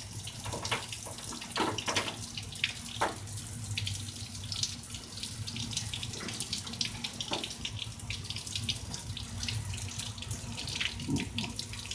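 Heavy rain pouring down: a steady hiss of falling water with many sharp splashes and drips.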